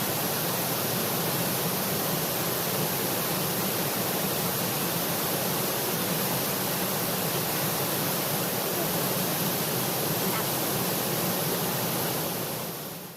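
Waterfall's water pouring down and splashing, a steady rushing noise that fades out near the end.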